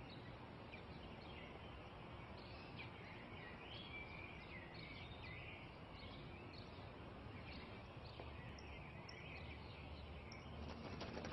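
Faint garden ambience with small birds chirping and singing, many short chirps over a steady low hiss.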